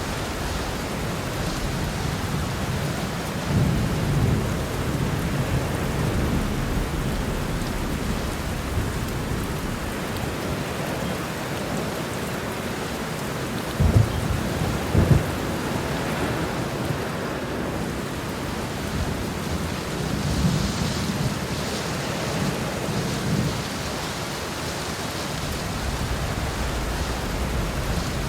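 Heavy rain falling steadily through a thunderstorm, with thunder rolling in low rumbles. About halfway through come two sharp, loud thunderclaps a second apart.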